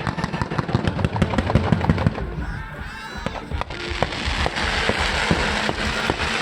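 Fireworks popping and crackling in a rapid string of sharp bangs for about two seconds, then thinning to scattered pops over music.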